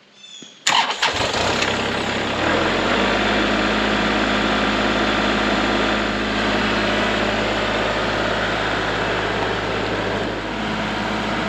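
An engine is cranked and catches about a second in, then settles into a steady idle.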